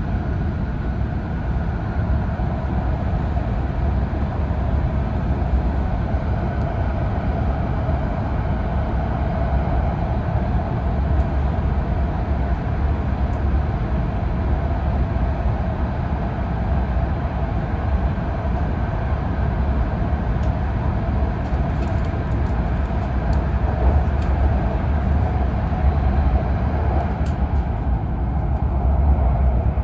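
E5 series Shinkansen running at speed, heard from inside the passenger car: a steady running noise, heaviest in a deep rumble, with a hum in the middle range.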